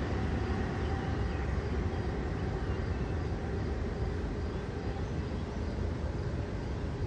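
Long Island Rail Road electric train moving away down the track, heard as a steady low rumble that eases slightly as it recedes.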